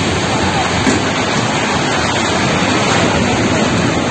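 Snow avalanche sweeping down a mountainside: a loud, steady rushing noise with wind buffeting the microphone.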